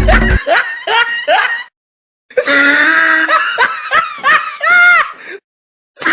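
High-pitched laughing and giggling in short bursts, broken twice by sudden silence, after background music cuts off about half a second in.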